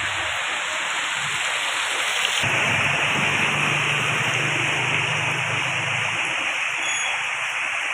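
Steady hiss of water, rain or running floodwater, with a low hum from about two and a half to six seconds in.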